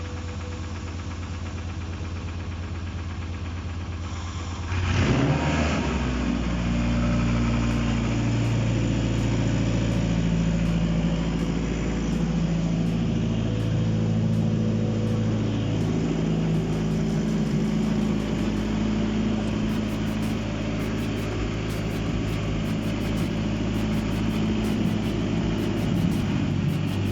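Mitsubishi 4B12 2.4-litre four-cylinder engine on a test stand, started for the first time: a steady low hum for about five seconds, then the engine catches and runs at idle, its speed wavering up and down.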